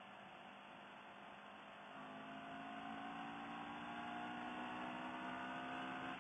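CFMoto CL-X 700's parallel-twin engine running at a steady road speed, heard faintly as a steady drone that gets louder about two seconds in.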